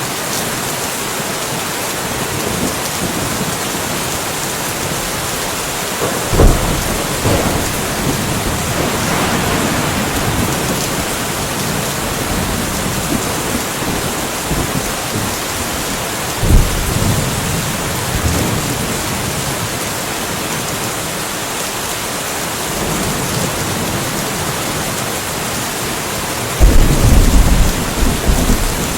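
Steady rainfall hissing, with thunder rumbling in three times: a sharp clap about six seconds in, another near the middle, and a longer, louder rolling rumble near the end.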